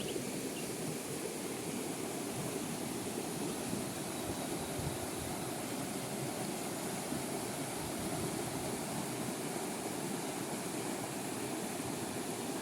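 Steady outdoor rushing noise with a constant hiss, even throughout, with no gusts, distinct events or tones.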